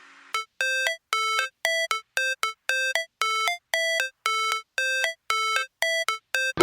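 A run of synthetic electronic beeps, about two to three a second, each a short pitched tone that steps up in pitch at its end, with dead silence between them. It reads as a beeping intro to the background music track.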